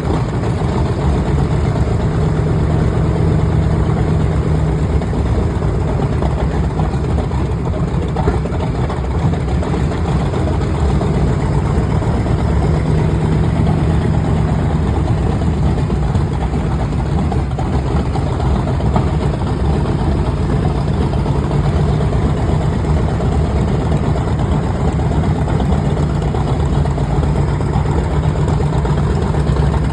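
Wright R-2600 twin-row radial engine of a TBM Avenger running steadily on a ground check run, with slight slow swells in level.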